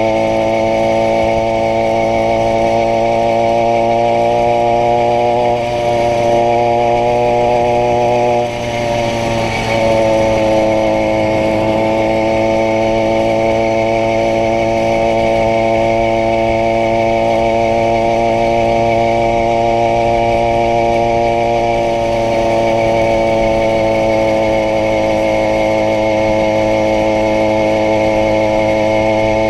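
80cc two-stroke bicycle engine running steadily, its revs dipping briefly about eight seconds in before settling again.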